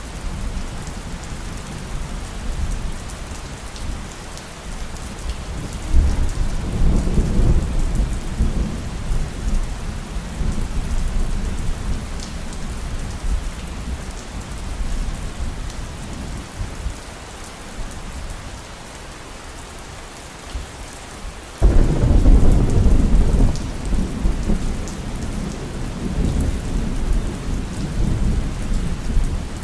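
Heavy rain falling steadily through a thunderstorm. A low roll of thunder swells about six seconds in, and a louder thunderclap breaks in suddenly about 22 seconds in and rumbles on for several seconds.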